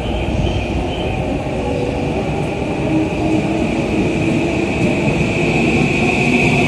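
JR East E235-series electric train pulling out of the platform and gathering speed: a rumble of wheels on the rails, with a steady high whine that grows louder.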